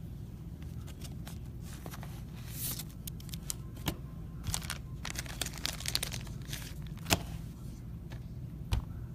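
Foil trading-card pack wrappers crinkling and tearing as packs are opened and cards handled, with a few sharp clicks, over a steady low hum. The crinkling is heaviest in the middle stretch.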